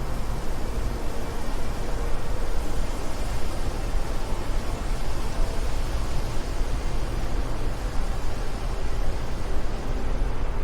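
Wind blowing steadily, a continuous rushing noise with a heavy low rumble that flutters slightly in strength.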